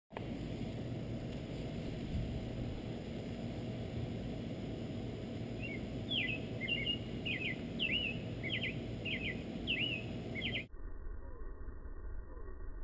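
Outdoor background noise with a steady low rumble, and a bird chirping repeatedly, about two short chirps a second, from about halfway in. Near the end the sound cuts suddenly to a muffled, lower-pitched version in which the chirps are still faintly heard.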